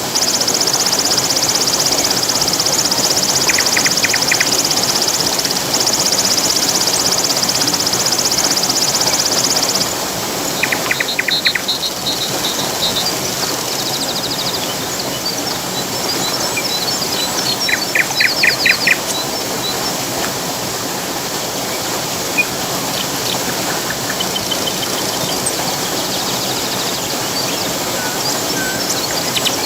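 Steady rush of falling water, with birds chirping and calling over it. A high, rapid trill runs for the first ten seconds and stops, then short chirps and brief pulsed calls come and go.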